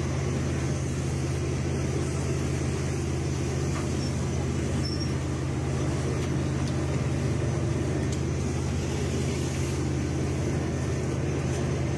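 A steady, unchanging low engine drone with a constant hum.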